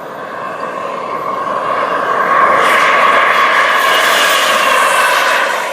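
Radio-controlled F-18 jet's Behotec 220 turbine whining as the model flies past. It grows louder to a peak about two and a half seconds in, then starts to fade near the end.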